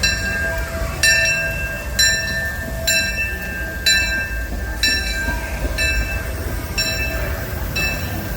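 Disneyland Railroad passenger train rolling along with a steady low rumble, and a sharp metallic ring striking about once a second.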